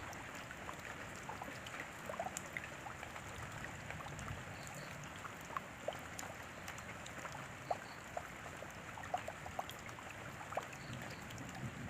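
Steady rain falling, an even hiss with scattered single drops ticking close by at irregular intervals.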